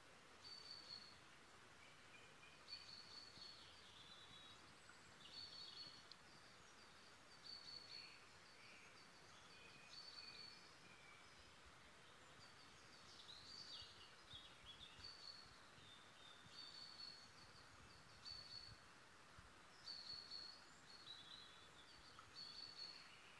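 Faint birdsong: short high notes repeated every second or two, with some lower chirps between them, over a soft steady hiss.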